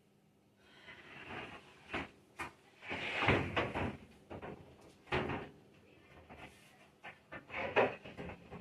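A cutting board being slid out from under a countertop microwave and handled on the counter: a string of irregular scrapes and knocks, loudest about three seconds in and again near the end.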